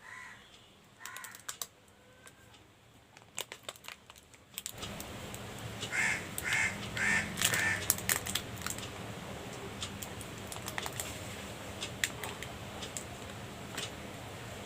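Handling noises from a chocolate pastry and its wrapping: scattered light clicks and crinkling. A steady background hiss comes up about five seconds in, and four short high notes sound soon after.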